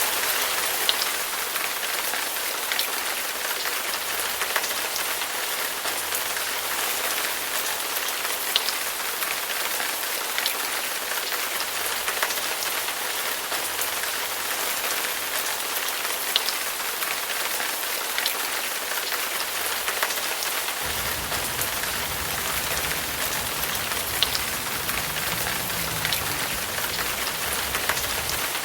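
Steady rain hiss with scattered sharp drop ticks. A low rumble joins in about two-thirds of the way through and runs on almost to the end.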